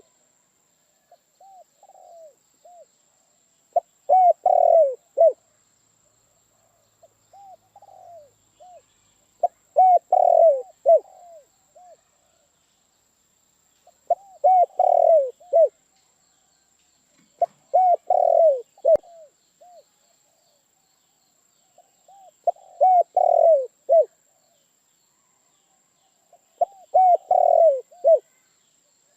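Spotted dove cooing: about seven song phrases of several low, falling coos, one every four to five seconds, with softer single coos in between.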